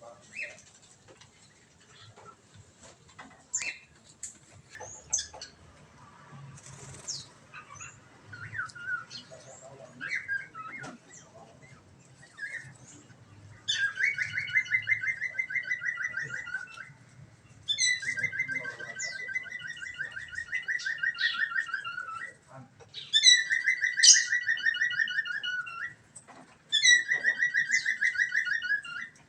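Birds calling in an aviary: scattered short chirps at first, then from about halfway a loud, fast trill repeated four times, each phrase two to four seconds long and sliding slightly down in pitch.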